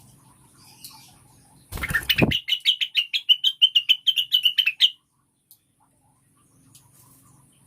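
Female greater green leafbird (cucak wilis) calling: a rapid, even series of loud chattering notes, about eight a second, for nearly three seconds. It is set off by a brief rough thump about two seconds in.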